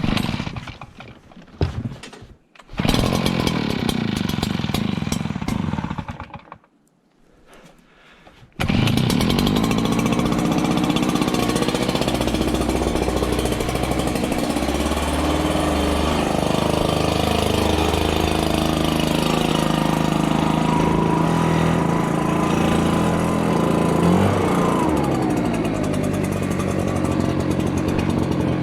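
Engine of a snow-plowing machine running steadily, its pitch shifting a little now and then. Before it, a few knocks and a brief burst of engine noise, a short gap, and then the engine sound comes in abruptly about a third of the way in.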